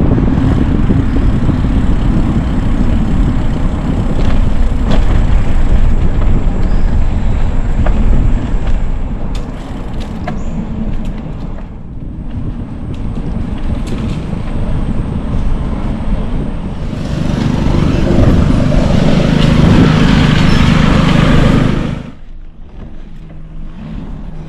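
Wind buffeting the microphone of a camera on a moving bicycle, with rolling tyre noise. Near the end there is a louder rush with a low steady hum, and it drops off suddenly.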